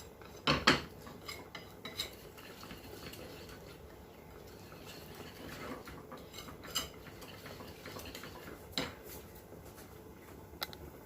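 Batter being stirred in a bowl, the mixing utensil knocking and clinking against the bowl now and then over a soft scraping; the loudest is a double knock about half a second in.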